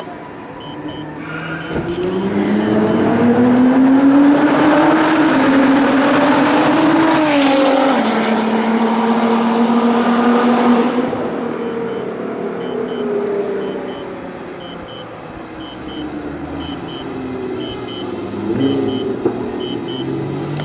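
Nissan GT-R R35's twin-turbo V6 through a straight-piped exhaust, accelerating hard with the pitch climbing for several seconds, then dropping sharply at a gear change or lift about seven and a half seconds in, over loud exhaust and tyre noise. After about eleven seconds it gets quieter, with the engine note falling away.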